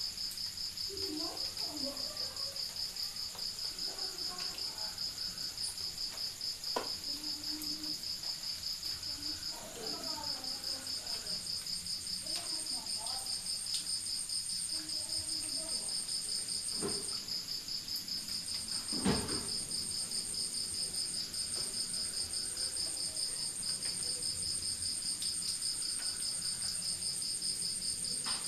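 Crickets chirping in a fast, steady pulsing trill, joined about a third of the way in by a second, higher-pitched insect trill that comes and goes. A single short thump sounds about two-thirds of the way through.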